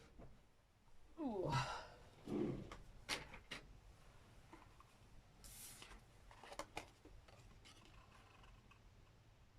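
Quiet paper-craft handling: a few light clicks and a short rustle of card and paper being worked. A brief falling vocal sigh comes from the crafter about a second in.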